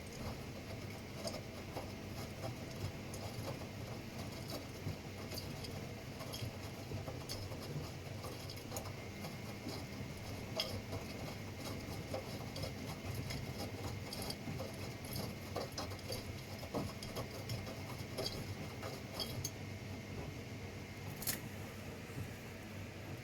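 Washing machine running through a wash, its drum turning with a steady low hum and frequent small clinks and clicks. A faint high steady tone joins about nine seconds in, and there is one sharper click near the end.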